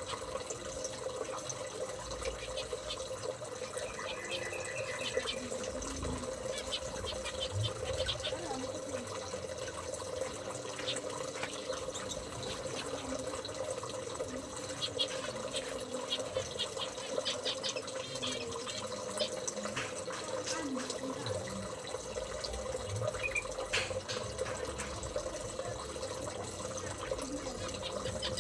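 Steady running water with a low steady hum, and short high chirps and clicks scattered through.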